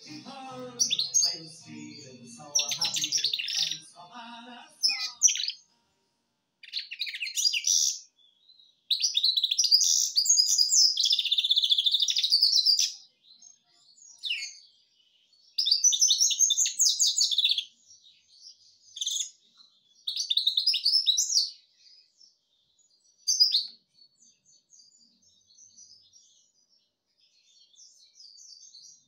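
Canary singing: high, rapid warbling and trilled phrases of a few seconds each, the longest about four seconds, separated by short pauses.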